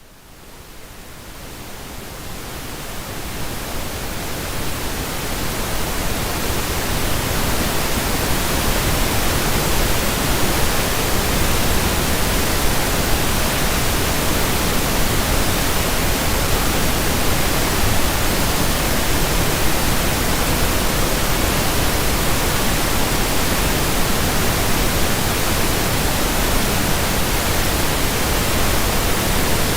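Pink noise: a steady, even hiss spread across all pitches, fading in over the first several seconds and then holding level.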